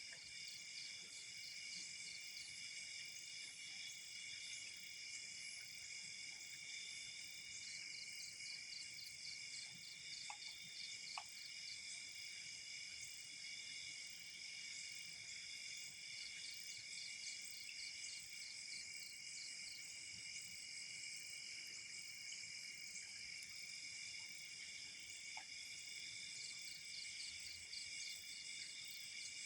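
Faint chorus of night insects, crickets among them, chirping steadily in high bands. One singer pulses in fast trains of chirps that start and stop several times, and a few faint ticks are heard.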